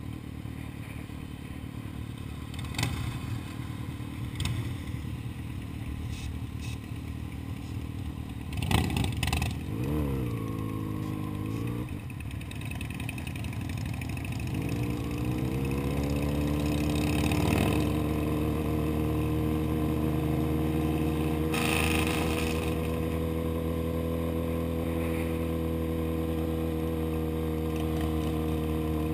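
Sport motorcycle engine heard from the rider's seat while riding. After a few sharp knocks about nine seconds in, the engine note drops and then climbs as the bike speeds up. From about halfway through it holds a steady pitch while cruising.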